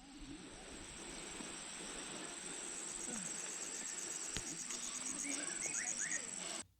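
Insects chirring: a steady high tone with a fast, even pulsing, over a faint even hiss. A few short chirps come in near the end, and it all cuts off suddenly.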